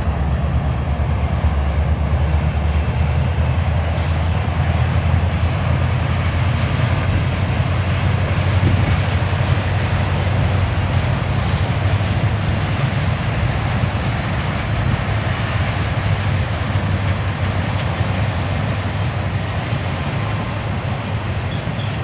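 Empty bulkhead flatcars of a Canadian Pacific freight train rolling past: steady rolling noise of steel wheels on rail, easing slightly near the end.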